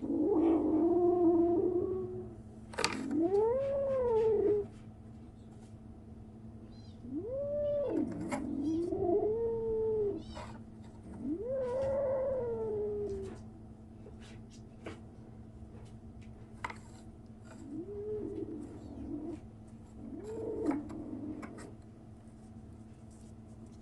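A young kitten crying with a series of long, drawn-out meows, each rising and then falling in pitch, about seven in all. They are loudest in the first half and grow fainter near the end.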